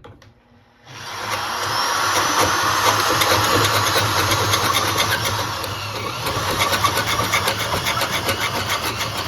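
Power drill boring into wood, starting about a second in and then running steadily under load.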